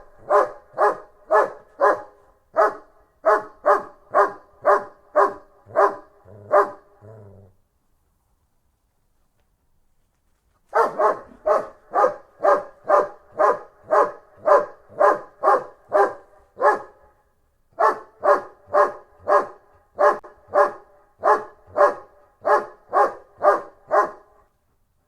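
German Shepherd barking in steady, fast runs of about two barks a second. The barking stops for about three seconds roughly a third of the way in, then resumes with a short break near two-thirds.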